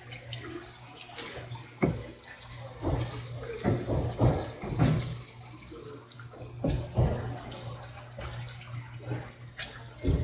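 Tap water running while flounder is washed and handled on a cutting board, with irregular knocks and clatter, over a steady low hum.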